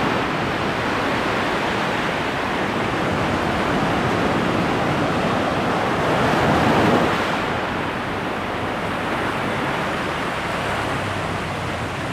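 Ocean surf washing in steadily, swelling once about halfway through, with wind rumbling on the microphone.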